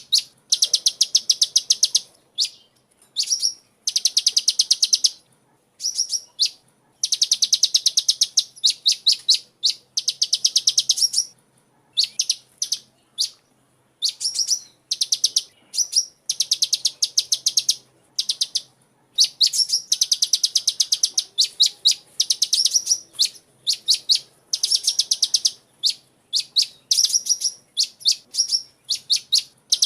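A sunbird chirping without a break, in quick high-pitched trains of rapidly repeated notes, each run lasting about one to two seconds, with short pauses between them.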